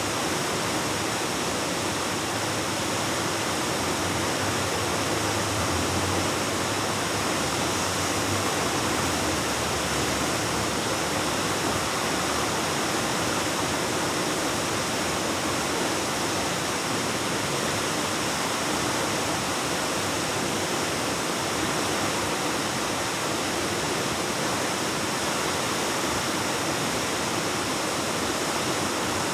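Waterfall pouring into a rock cave: a steady, unbroken rush of falling water echoing off the cave walls.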